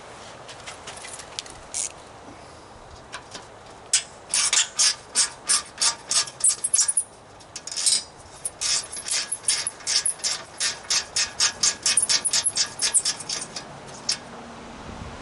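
A ratcheting hand tool clicking quickly and evenly, about four clicks a second, as fasteners are backed out while an air compressor is dismantled. A few scattered clicks come first, the fast clicking starts about four seconds in, and it pauses briefly midway.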